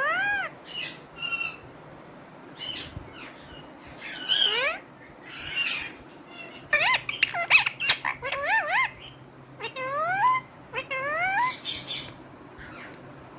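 A pet parrot making a string of short calls and whistles that swoop up and down in pitch, in bursts with clicks between them; it goes quiet near the end.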